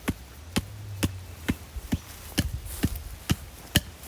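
A mallet hammering a bamboo stake into the ground, with steady blows about two a second.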